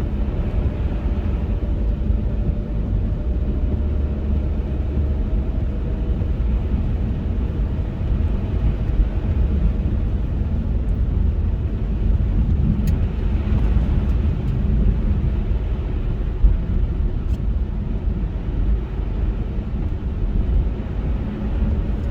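A car driving at a steady pace: continuous low road and engine rumble with a faint, wavering hum above it and no change in speed.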